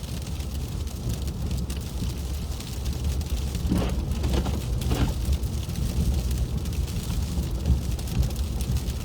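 Inside a moving car on a slush-covered road: a steady low rumble of tyres and engine, with the hiss of sleet and slush spattering the car. A few soft knocks come between about three and a half and five seconds in.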